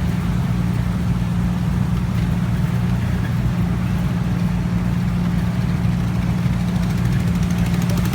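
A river passenger boat's engine running steadily: a low, even drone.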